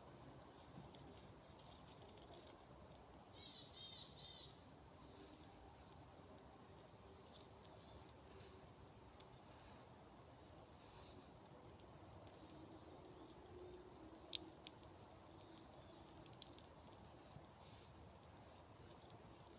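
Faint forest ambience, with a bird giving a short run of quick repeated chirps about three to four seconds in and scattered faint chirps after. Two sharp clicks stand out later on.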